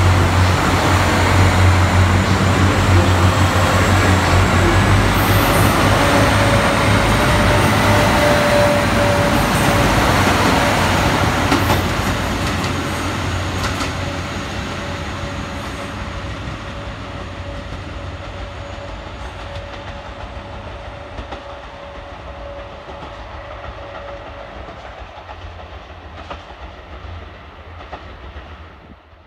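Diesel limited express train pulling away along the track. Its engine hum and the wheel noise on the rails are loud at first, then fade steadily through the second half as the train draws off into the distance. A faint steady whine holds through the middle.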